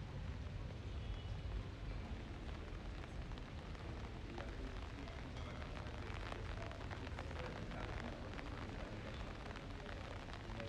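Rain falling, with many small sharp drop ticks thickening about four seconds in, over a steady low rumble.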